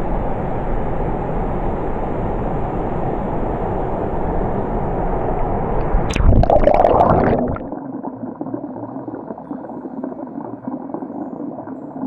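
Muffled, rushing water with a louder burst of splashing about six seconds in. The sound then cuts abruptly to a quieter, duller water murmur.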